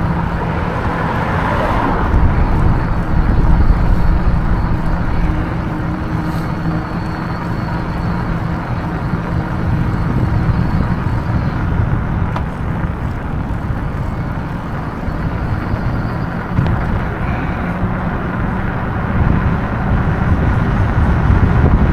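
Steady rumbling road and wind noise from an e-bike ride, heaviest at the low end.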